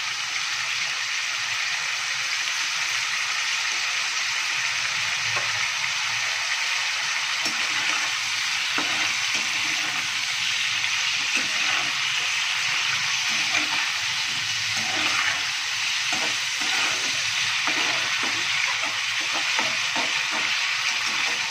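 Sliced radish frying in oil in a kadai, sizzling steadily. From about the middle on, a slotted metal spatula stirring the slices scrapes and knocks against the pan, more often near the end.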